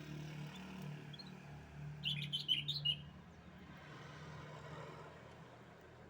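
Canary singing a short burst of rapid, high chirps and trills about two seconds in, over a faint steady low hum.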